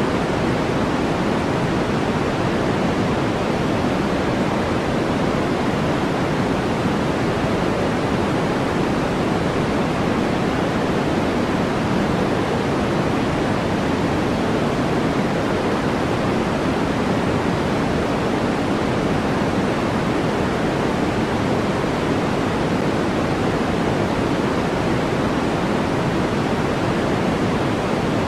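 Steady generated noise of a white noise sleep track: an even, unchanging rush with no events, fuller in the low and middle pitches than in the highs.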